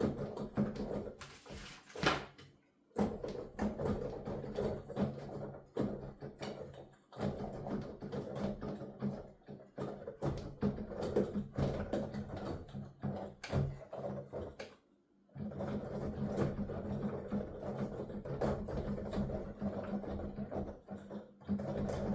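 Keys of a piano keyboard being played with the sound going only to headphones, so what is heard is the rapid, irregular clatter and thumping of the key action rather than notes. Brief pauses come at about two and a half seconds and at about fifteen seconds.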